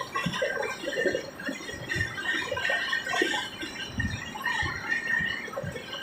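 Moving train carriage rattling and clinking, with irregular low knocks and light metallic jingling.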